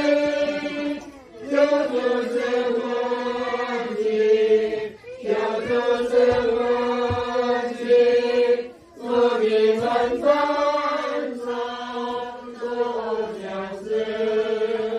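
A voice singing a slow melody of long held notes, chant-like, with short breaks between phrases.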